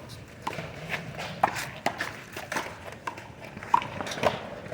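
One-wall handball rally: a small rubber handball slapped by hand and smacking off the wall and pavement, sharp smacks about twice a second.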